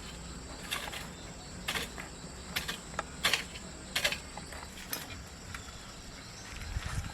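Sharp taps or knocks, roughly one a second and sometimes in quick pairs, over a faint steady high-pitched hum.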